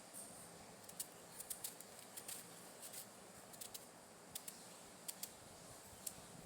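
Faint, irregular light clicks and ticks, about a dozen, over a low steady hiss.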